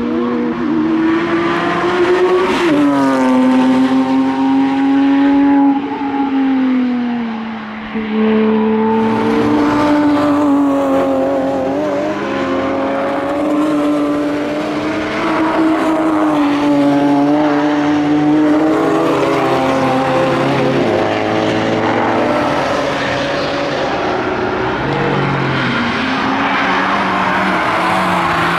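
Several sports cars driven hard past one after another on a race track, their engines revving up and dropping back through gear changes.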